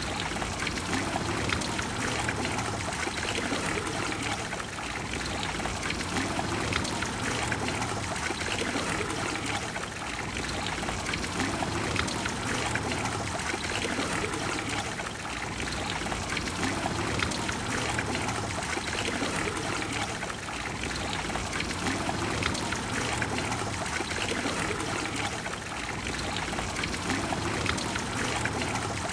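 Water of the Trevi Fountain flowing and splashing steadily into its pool.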